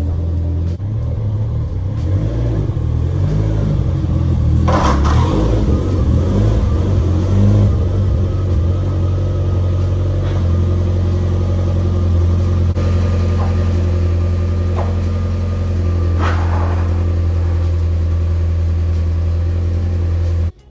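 Turbocharged four-cylinder engine of a Mitsubishi Lancer Evolution X running just after a start. It is uneven with some revving for the first several seconds, settles to a steady idle about two-thirds of the way in, and cuts off suddenly at the end.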